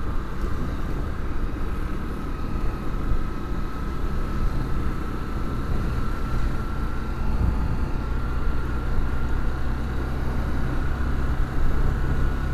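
Honda CB Twister 250's single-cylinder four-stroke engine running steadily as the motorcycle rides along at town speed, its note creeping up a little as it gathers speed, with wind rumbling on the unprotected microphone.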